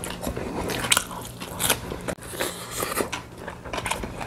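People biting and chewing food, with irregular crunches through the whole stretch.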